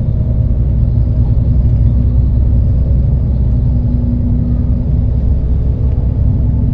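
Steady low rumble of a moving vehicle, with a constant drone.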